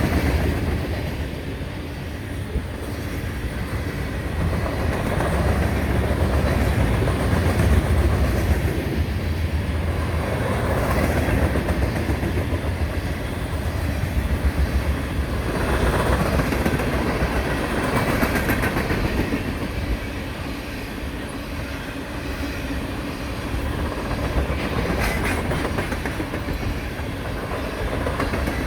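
Cars of a long manifest freight train rolling past: a steady, loud rumble with wheels clacking over the rail joints, swelling and easing as the cars go by.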